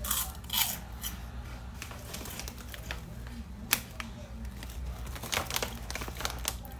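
Crunchy Herr's sweet barbecue cheese puffs being chewed, with irregular crisp crackles and a sharper crack about three and a half seconds in.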